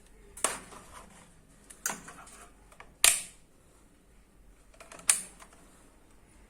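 Four sharp metallic clicks or knocks, spaced one to two seconds apart, from work on a microwave oven magnetron.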